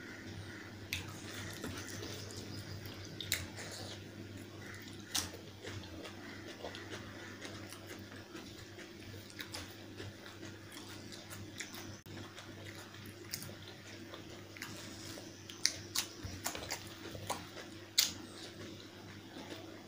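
Close chewing and wet mouth clicks of someone eating chicken curry with rice, with scattered sharp smacks; the loudest come in a cluster near the end. A steady low hum runs underneath.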